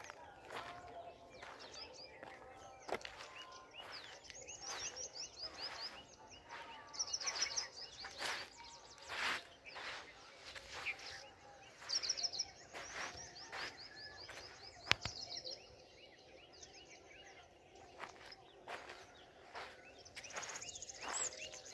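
Small birds chirping, with several quick runs of rapid high notes, over a low outdoor background hiss. Short scattered clicks and rustles come through, with one sharp click about two-thirds of the way in.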